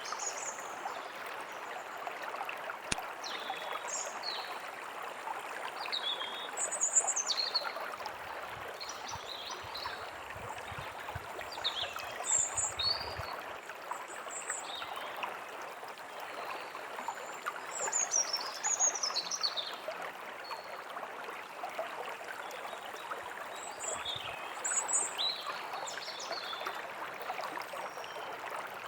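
A stream rushing steadily, with small birds chirping and trilling over it now and then, several calls overlapping.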